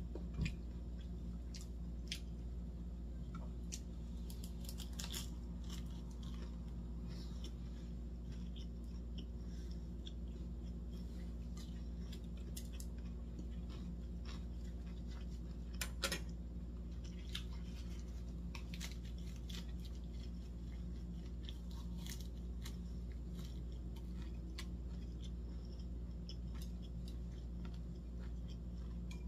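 Close-miked chewing of lettuce-leaf rice wraps: irregular crisp crunches and wet mouth clicks over a steady low hum, with two louder sharp clicks, one near the start and one about halfway through.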